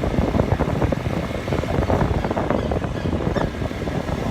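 Steady wind rush buffeting the microphone on a moving motorbike, with engine and road noise underneath.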